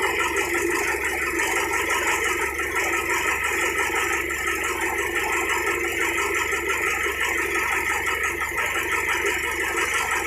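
Fishing boat's engine running steadily, with a fast even pulsing and rattle.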